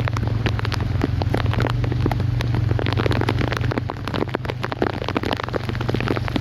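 Rain falling on hard surfaces: a dense, irregular patter of drops over a steady low rumble.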